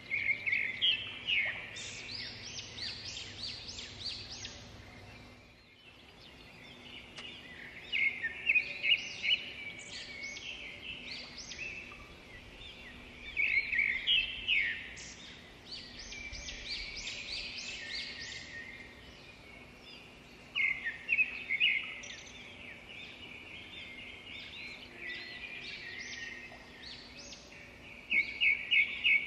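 Small birds chirping and twittering in quick runs of high notes, coming in spells every few seconds, over a steady background of outdoor noise.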